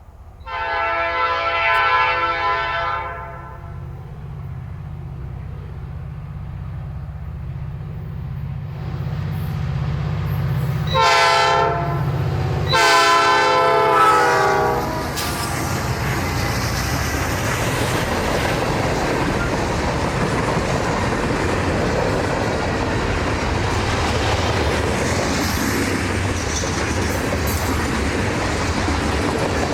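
Diesel locomotive's air horn sounding three times, one long blast near the start and two more in quick succession about ten seconds later, over the low rumble of its engine. After the horn the train goes by with steady wheel and rail noise and clickety-clack.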